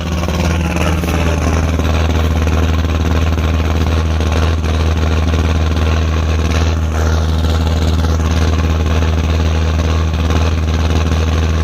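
Combine harvester's diesel engine running steadily just after a cold start, warming up. It gets a little louder right at the start, then holds an even note.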